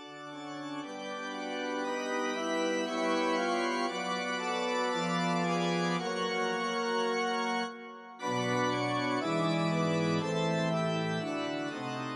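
Organ music playing slow held chords, dipping briefly about two thirds of the way through before the next phrase.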